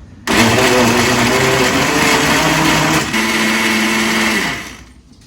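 Electric blender running, blending apple pieces, Greek yogurt and water: it starts abruptly, changes pitch about three seconds in, then winds down near the end.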